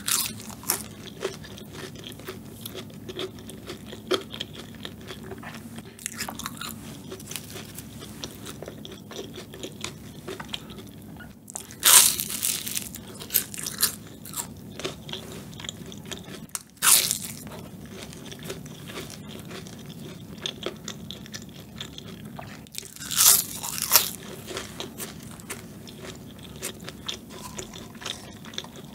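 Close-miked chewing of a flaky puff-pastry tart shell: a steady crackle of small crunches, with a few louder, sharper crunchy bites spread through.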